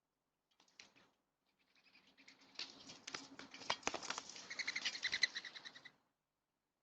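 A small bird splashing in a shallow bird bath, beating its wings in the water to make a fast irregular patter of splashes and droplets. A brief splash comes first, then the splashing builds from about two seconds in and stops abruptly near six seconds.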